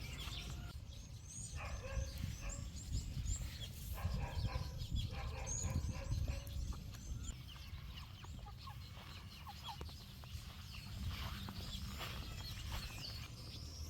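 Chickens clucking, with short high bird chirps throughout and a steady low rumble underneath.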